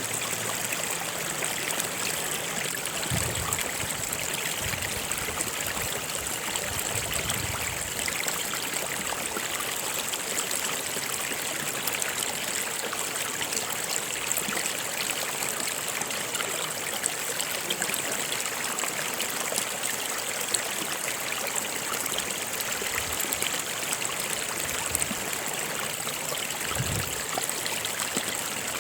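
Stream water flowing and trickling steadily over rocks, an even rushing with small splashes.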